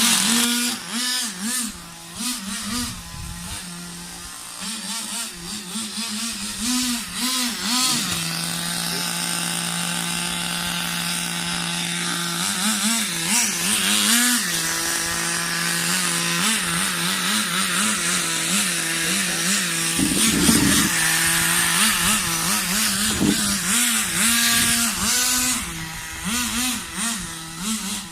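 Small Thunder Tiger 15 Pro nitro engine in an RC buggy running, its pitch rising and falling over and over as the throttle is worked, with a steadier stretch of several seconds partway through.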